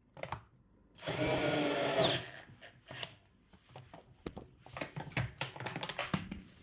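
Cordless drill-driver running for about a second, tightening a bolt on the washing machine tub. A string of short clicks and knocks follows, from tools and parts being handled.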